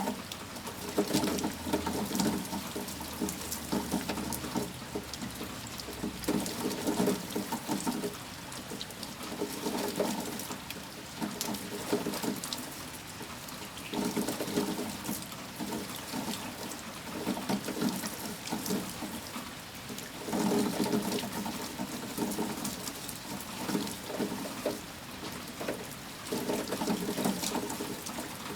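Heavy storm rain with water splashing, swelling and easing in surges every few seconds, with sharp drips ticking on top.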